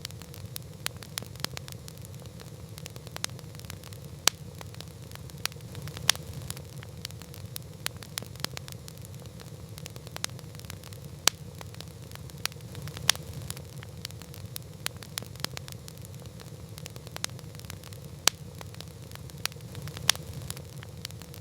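Campfire crackling: irregular sharp pops and snaps of burning wood, several a second with a few louder ones, over a steady low rumble.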